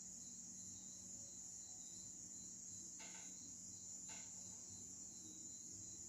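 Near silence with a faint, steady, high-pitched drone in the background. Two faint short sounds come about three and four seconds in.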